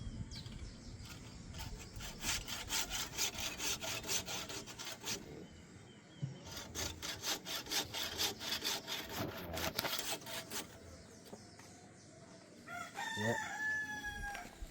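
Hacksaw cutting through rusted, seized stabilizer-bar link bolts by hand, in two runs of quick back-and-forth strokes with a pause between them. Near the end a rooster crows once.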